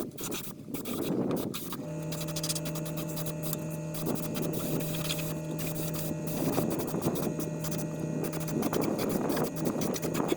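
A steady machine hum starts about two seconds in and holds one pitch, over irregular background noise.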